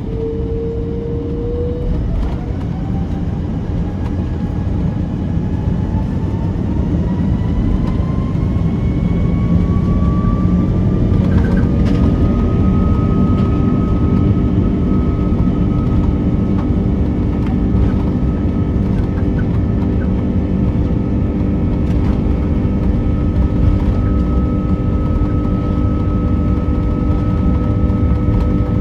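Airbus A330's Rolls-Royce Trent 700 engines spooling up for the takeoff roll, heard from inside the cabin. A whine climbs in pitch for about the first twelve seconds over a heavy rumble, then holds steady at takeoff thrust.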